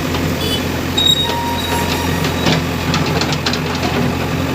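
Heavy diesel engine idling with a steady low hum, with a few short clicks over it.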